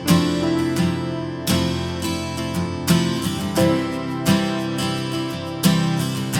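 Background music: strummed acoustic guitar, with a strum about every three quarters of a second.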